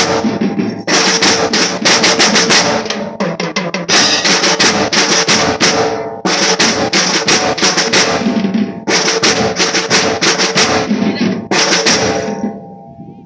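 School marching drum band playing: snare drum rolls over bass drum beats, with loud accents every two to three seconds. The playing stops about twelve seconds in and dies away.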